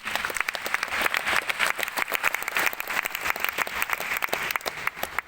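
Concert-hall audience applauding: dense, steady clapping that stops near the end, leaving the hall's echo to fade away.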